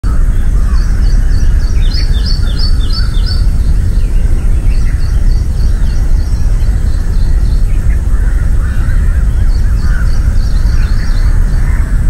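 Birds chirping in repeated quick phrases of short high notes, in several bursts, over a loud steady low rumble.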